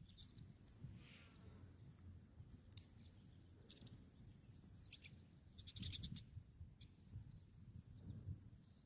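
Near silence outdoors with a few faint bird chirps scattered through, and a couple of faint sharp clicks about three and four seconds in.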